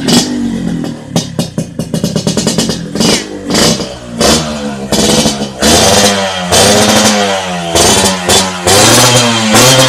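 Yamaha RX-King's two-stroke single revved again and again through an underbelly aftermarket exhaust. Quick throttle blips rise and fall in pitch, with sharp crackling in the first few seconds and longer, fuller revs after that.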